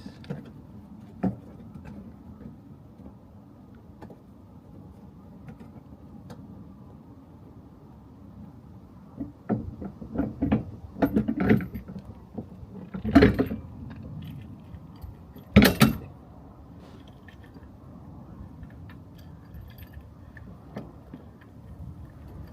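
Metal clicks and clunks of a detachable tow bar being handled at its receiver under the car's rear bumper. A run of knocks comes about halfway through, then two loudest clunks a couple of seconds apart.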